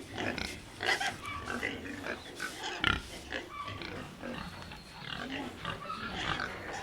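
Domestic pig sounds: a run of short, irregular calls, with one sharper, louder call about three seconds in.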